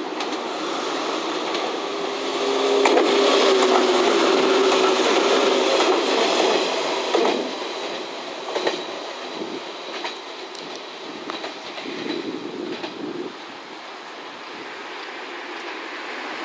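JR West 115 series three-car electric train passing close by while climbing a steep grade under power: steady running noise with a low hum and wheels clacking over rail joints. It is loudest about three to seven seconds in, then fades as it draws away.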